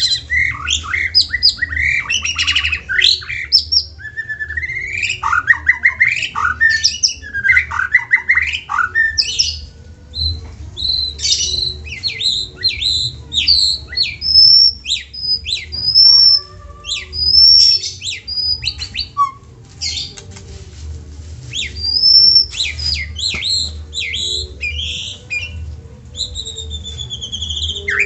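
White-rumped shama (murai batu) singing a long, varied song. For the first nine seconds it runs rapid harsh chattering phrases, then it moves to clear, separate whistled notes and trills, over a steady low hum.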